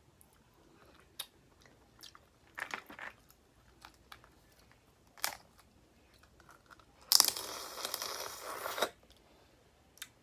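Boiled crawfish being broken and peeled by hand close to the microphone: scattered shell cracks and clicks, then a louder noisy crackle of under two seconds near the end.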